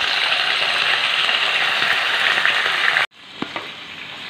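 Boneless chicken pieces sizzling loudly in hot oil in a pan. About three seconds in, the sound drops abruptly to a quieter sizzle with a few light clicks.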